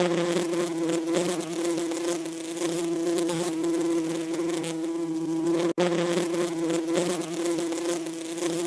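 Bees buzzing steadily with an even, droning pitch, broken once by a sudden split-second gap a little under six seconds in.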